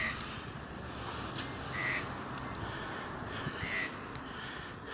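A bird giving a short, harsh call three times, about two seconds apart, over a steady background hiss.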